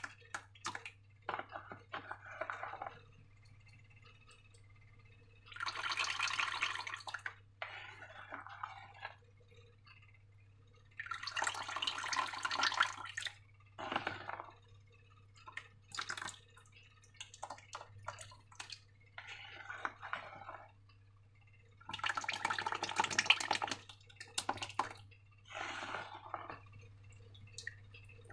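Slime being worked by hand: irregular wet, sticky clicks and drips, broken by three longer squelching, pouring bursts of a second or two each.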